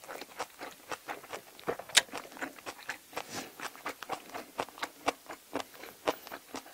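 Close-miked eating sounds: wet chewing and lip smacking, a dense run of short irregular clicks, as a mouthful of spicy braised seafood with bean sprouts is eaten. One sharper click stands out about two seconds in.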